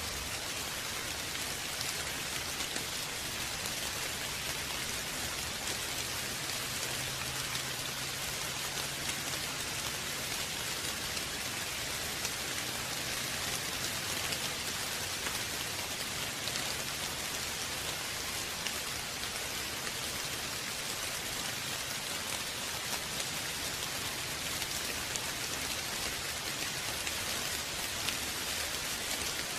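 Steady rain falling on a hard surface, an even hiss of many drops with small individual drop ticks.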